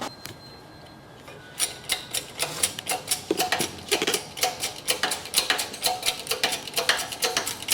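A rapid, uneven run of sharp clicks that starts about a second and a half in and keeps going, several clicks a second.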